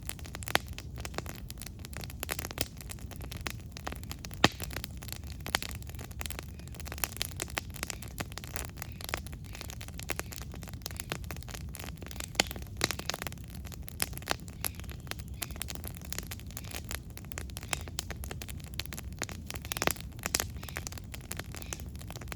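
Campfire burning: wood crackling with irregular sharp pops over a steady low rumble, one louder pop about four seconds in.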